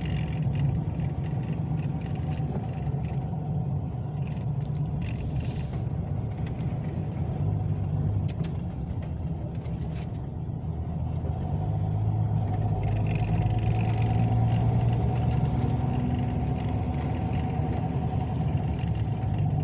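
Long-haul truck driving on the road: a steady low engine drone with road noise, growing a little louder about twelve seconds in.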